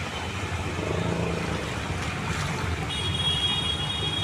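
Steady rumbling noise of a vehicle and water on a flooded road. A thin high tone joins about three seconds in.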